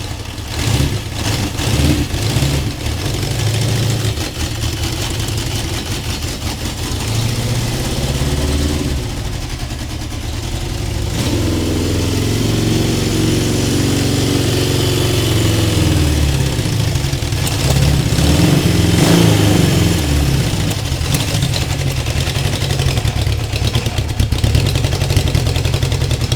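Honda CB750K2's air-cooled inline-four engine running just after starting, with a few quick blips of the throttle in the first seconds and a longer rise in revs about two-thirds of the way through.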